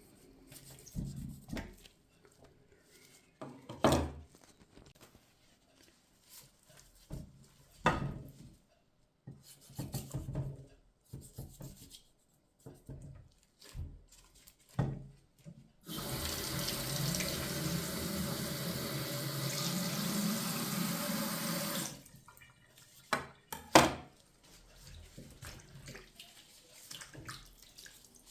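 Kitchen tap running for about six seconds in the middle, with scattered sharp knocks and clatter before and after it, the loudest a pair of knocks just after the water stops.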